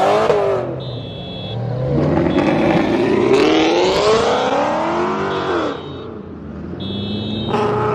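Car engines revving hard, with the engine note climbing in pitch and then falling away as cars pull off, twice. A high beeping tone switches on and off behind them.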